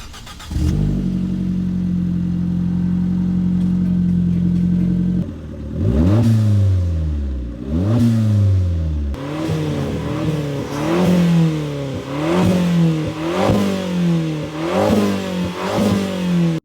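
A modified Abarth 500/595's 1.4-litre turbo four-cylinder, heard through an aftermarket exhaust, running steadily for about five seconds. It then gives two long revs that rise and fall, followed by a string of about eight quick throttle blips. The sound cuts off suddenly at the end.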